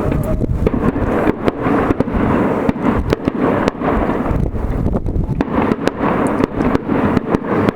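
Fireworks display with bangs and crackles coming in quick succession over a continuous rumble of further bursts.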